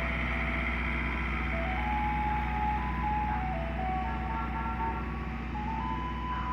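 Ice cream truck's chime box playing a low-pitched jingle, a simple tune of single stepped notes, over the steady hum of the truck running.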